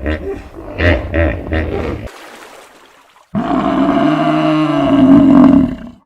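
Animal calls: a quick run of short, rhythmic calls for about two seconds, then, after a brief lull, one long drawn-out call that ends abruptly just before the end.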